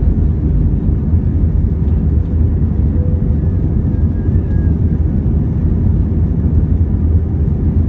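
Airbus A321 airliner's steady low rumble of engines and airflow, heard from inside the cabin.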